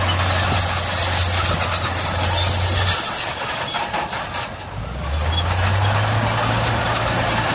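Heavy diesel engine of earthmoving machinery running with a steady low drone over mechanical noise. The engine note drops away about three seconds in and comes back about two seconds later, slightly higher.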